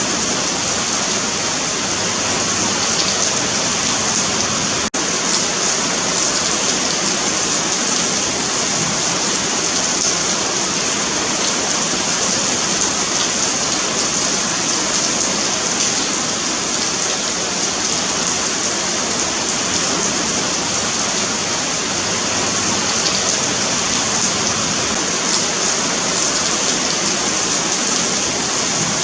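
Rain falling steadily on a paved sidewalk: a dense, even hiss of drops striking the pavement. It drops out for a split second about five seconds in.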